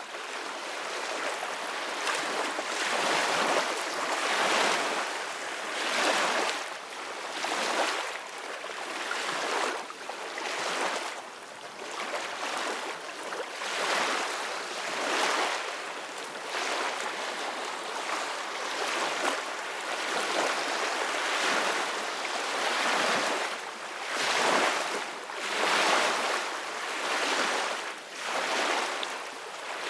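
Ocean surf washing in: a steady hiss of breaking waves that swells and eases about every two seconds.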